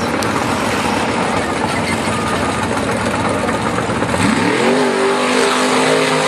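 A car engine revs up sharply about four seconds in and holds at high revs, over a steady noise of running engines.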